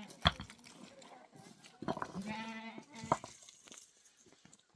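A single held bleat from a sheep or goat about two seconds in, with two sharp knocks, the loudest right at the start and another just after three seconds.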